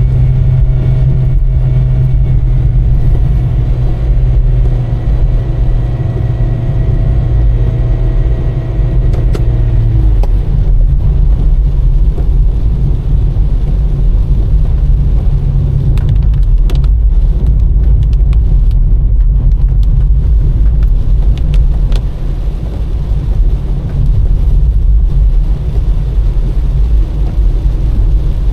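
Car driving on a wet road: a steady loud low rumble of engine and tyres. A steady engine hum runs over it and drops away about ten seconds in.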